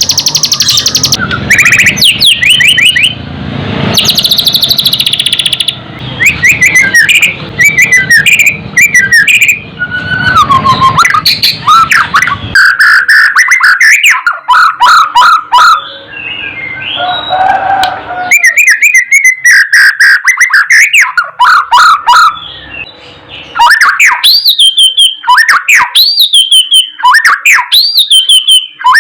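White-rumped shama singing loudly, a varied run of rich whistles, fast chirping trills and slurred notes in quick phrases with short pauses. Near the end it repeats a down-sliding whistle about once a second.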